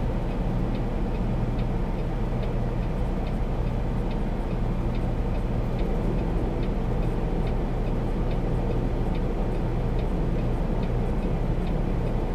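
Semi-truck diesel engine idling with a steady hum, and a faint, regular ticking about one and a half times a second over it.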